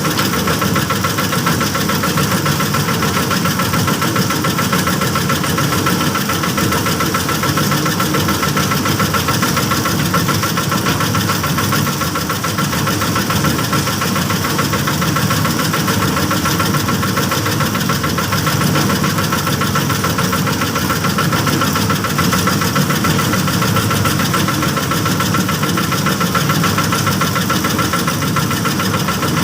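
Small single-cylinder 'mesin kano' petrol engine powering a bored-pile rig, running steadily at a constant speed.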